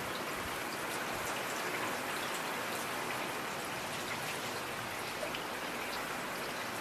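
Steady rain falling, a continuous hiss with many separate drop hits heard on top.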